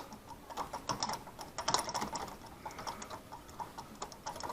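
Light, irregular clicks and taps of metal hand tools being handled, several a second.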